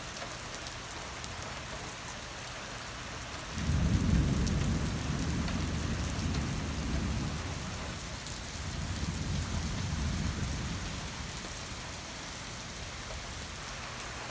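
Steady rain falling, with a peal of thunder breaking about three and a half seconds in. The thunder rumbles on for about seven seconds, swelling a second time before it fades back under the rain.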